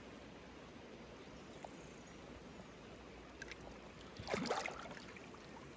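Faint water trickling and lapping around a kayak, with a few light clicks and then a short splash a little after four seconds in.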